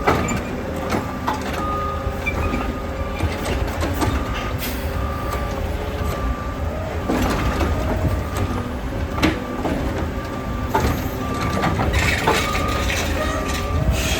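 Heil Rapid Rail garbage truck's engine running, with its warning beeper sounding about once a second and several sharp metal clanks from the truck at work.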